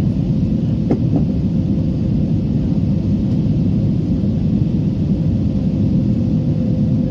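Steady cabin rumble of an Airbus A320neo airliner in flight on approach, engine and airflow noise heard from a window seat, with a faint steady hum and a light click about a second in.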